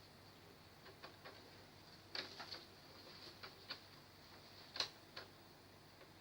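Scattered light clicks and taps, about a dozen irregular ones over a faint steady hiss, with a small cluster around two seconds in and the sharpest click near the end: small parts and tools being handled during work on an LED TV's backlight.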